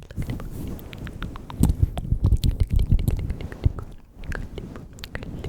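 Close-miked ASMR mouth sounds: a run of small wet clicks and smacks over muffled low rumbles that swell and fade, loudest in the middle.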